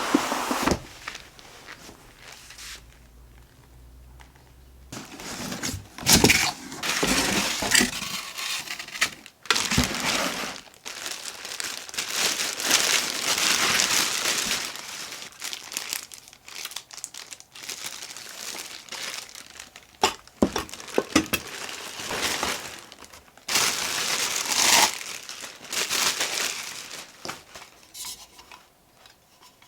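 Crinkling and rustling of handled material, in irregular bursts with short pauses, quieter for a few seconds early on and again near the end.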